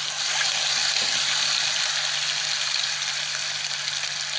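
Ground paste of garlic, red onions, ginger and pepper sizzling and crackling steadily in hot oil in a wok as a wooden spatula stirs it.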